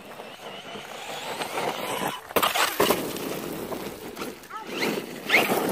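Electric brushless RC monster truck running on dirt, its motor whine rising and falling as it speeds up and slows, with tyre and gravel noise. Sudden loud knocks come about two and a half seconds in and again near the end.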